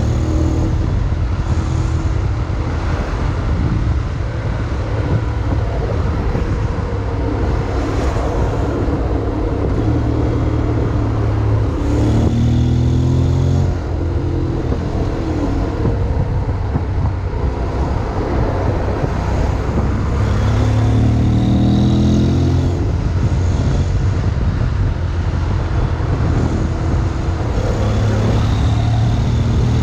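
Honda X-ADV 750's parallel-twin engine running under way, with steady wind and road noise. The engine note rises twice as it accelerates, about twelve seconds in and again around twenty seconds in.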